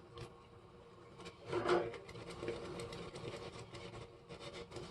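Thick lemon pastry cream cooking in a saucepan on the stove, with a run of quick, uneven clicks and taps as it is stirred and bubbles.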